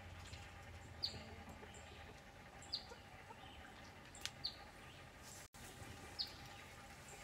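Faint birdsong outdoors: short, high, downward-falling chirps, one every second or two, over low steady background noise.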